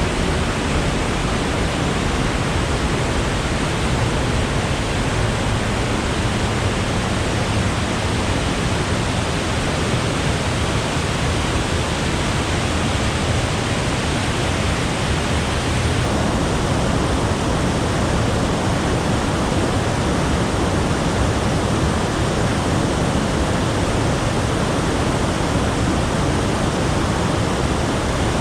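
Willow River's waterfall: a loud, steady rush of falling water, its tone shifting slightly about sixteen seconds in.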